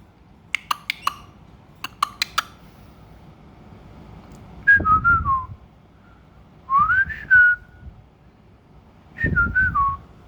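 Several sharp clicks, then three short melodic whistles: the first falls in steps, the second slides up and holds, the third falls again.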